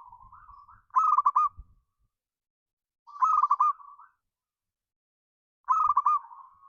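Zebra dove (perkutut) singing its cooing song: three phrases about two and a half seconds apart. Each phrase is a quick run of four or five loud rolling notes that trails off into a softer, drawn-out coo.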